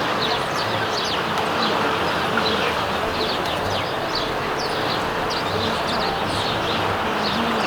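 Sparrows chirping: a flock giving many short, quick chirps in a steady stream, over a constant rushing background noise.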